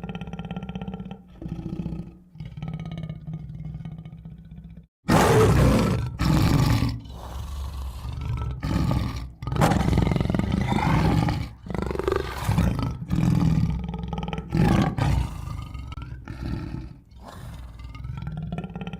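A tiger roaring: a sudden run of loud, repeated roars begins about five seconds in and eases off near the end. Quieter steady tones with a musical sound play before and after the roars.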